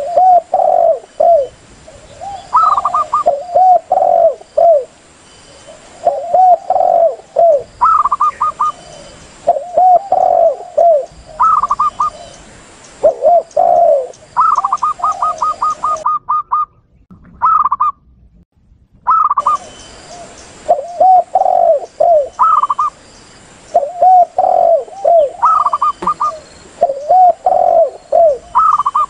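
Recorded dove calls used as a lure: spotted doves coo in repeated low phrases, mixed with quicker runs of higher cooing notes from zebra doves. The calls break off briefly about two-thirds of the way through.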